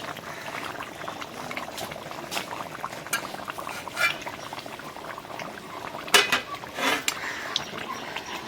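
Chicken curry bubbling in a cooking pot, with a few sharp metal clinks against the pot, the loudest twice about six to seven seconds in.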